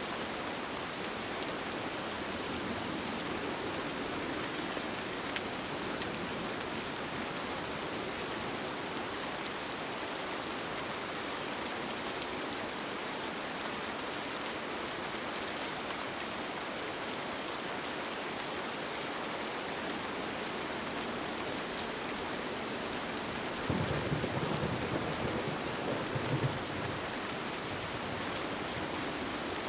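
Steady rain falling, an even hiss throughout. About three-quarters of the way through, a low rumble of thunder rises and lasts about three seconds.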